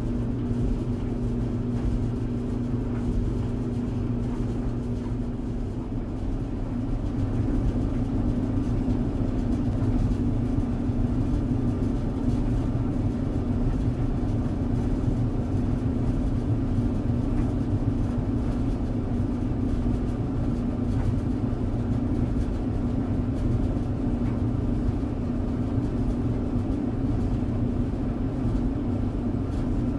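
Tumble dryer running steadily: a constant low rumble of the turning drum with a steady motor hum, slightly louder from about seven seconds in.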